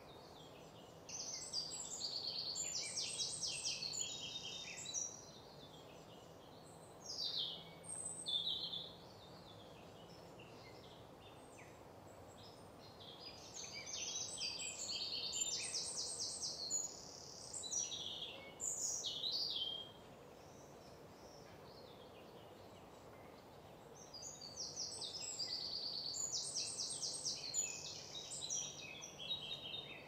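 A songbird singing: three long phrases of rapid high trills, each about four seconds and roughly ten seconds apart, with shorter phrases between them, over a faint steady background hiss.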